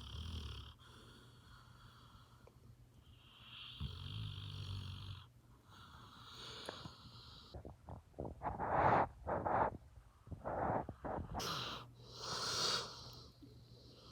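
Dog snoring in deep sleep, slow breaths every few seconds. About two-thirds of the way in comes a louder run of short, choppy snorts.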